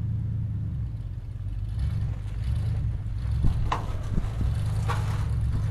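Vehicle engine idling with a steady low hum, with a few short clanks and knocks about three and a half to five seconds in.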